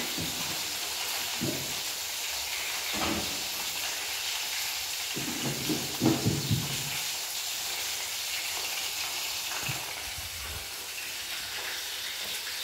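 Chicken pieces deep-frying in hot oil in a pot, a steady sizzle. A few dull knocks come through, the loudest a cluster about halfway.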